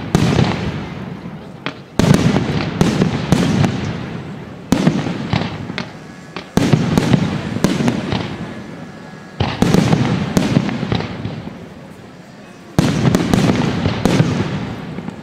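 Fireworks display: aerial shells bursting one after another, about every two to three seconds. Each is a sudden bang followed by a run of sharp crackles that die away over a couple of seconds.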